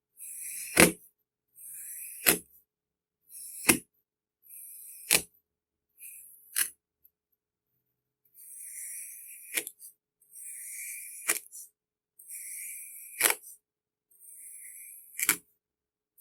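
Kinetic sand being cut with a blade: nine strokes, each a short crunchy scrape through the sand ending in a sharp tap, about one and a half seconds apart, with a pause of about two seconds in the middle.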